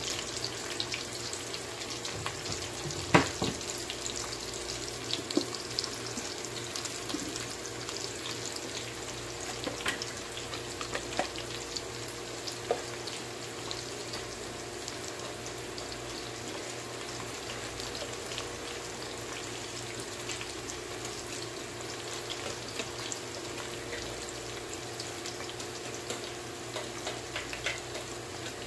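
Sliced onions frying in oil in a wok: a steady sizzle with scattered small crackles and pops, and one sharper click about three seconds in. A faint steady hum runs underneath.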